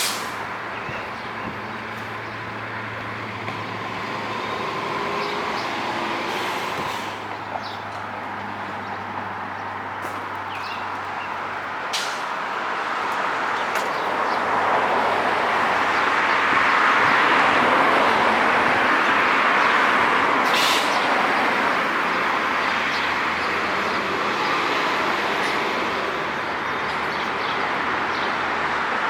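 Downtown street traffic: a continuous wash of vehicles passing, swelling louder about halfway through as traffic goes by close, with a low engine hum under the first half and a few brief clicks.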